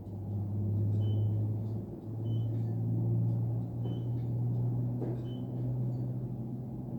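Low, steady machine hum with a deep drone that shifts pitch slightly a couple of times, typical of a vehicle engine or car wash pump motor running.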